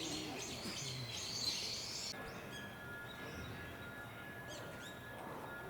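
Small birds chirping in the background over outdoor ambience. About two seconds in the dense chirping cuts off abruptly, leaving a faint steady high hum and a few scattered chirps.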